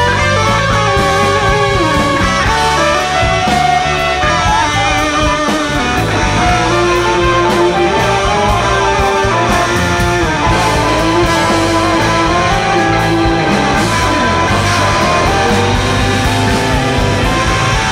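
A large jazz-rock band playing live, electric guitar prominent over a steady rhythm section, with held and bending notes throughout.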